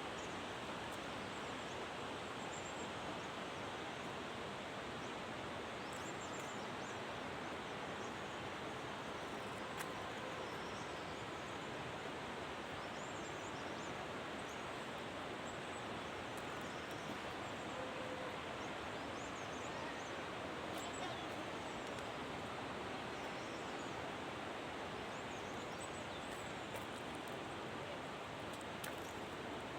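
Steady outdoor background hiss with faint, high bird chirps scattered through it.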